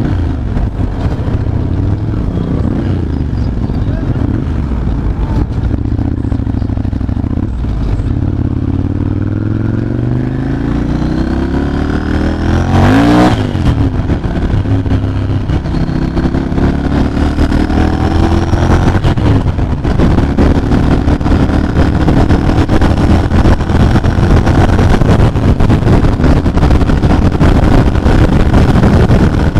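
Ducati Monster 796's air-cooled L-twin engine running through a Termignoni exhaust at highway speed, with wind on the microphone. The engine note rises in pitch as the bike accelerates and grows louder in the second half. There is a brief loud whoosh near the middle.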